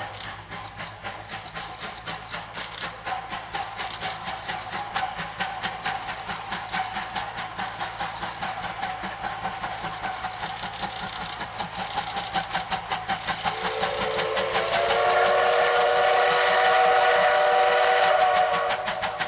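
C12 66 steam locomotive working past with a rapid, even beat of exhaust chuffs that grows louder as it nears. Near the end it sounds its steam whistle in one long blast of about five seconds.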